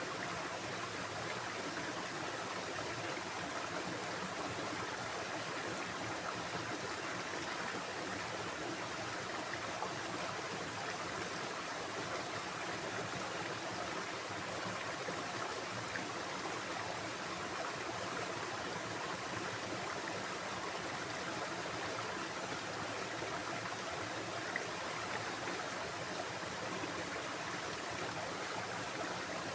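Running water of a stream, a steady, even rushing sound with no change.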